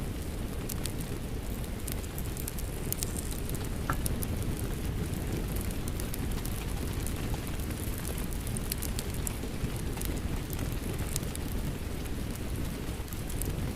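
Rain mixed with a crackling wood fire: a steady low rush with scattered sharp pops and crackles throughout.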